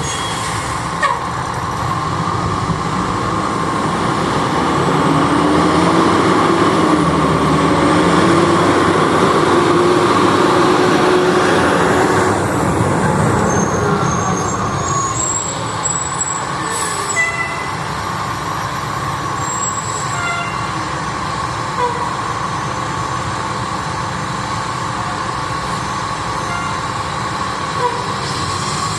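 Aerial ladder fire truck's diesel engine driving by on a response, rising in pitch as it accelerates and loudest about six to twelve seconds in, over steady road noise.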